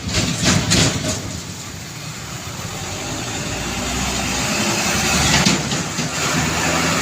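Large truck engine running steadily, with short noisy bursts in the first second and again about five and a half seconds in, and the sound slowly getting louder.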